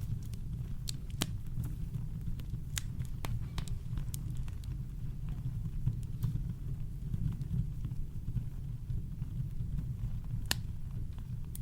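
Campfire crackling: irregular sharp pops and snaps, a few louder ones standing out, over a steady low rumble of brown noise.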